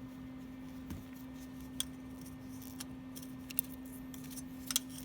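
A few light metallic clicks and taps as a wrench is turned around and fitted onto a nut welded to a broken exhaust manifold bolt, over a steady low hum.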